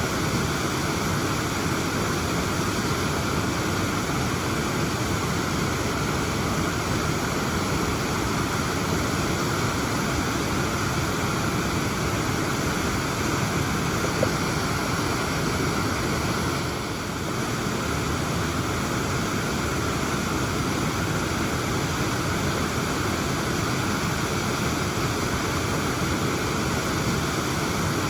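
Waterfall rushing steadily, a constant full roar of falling water.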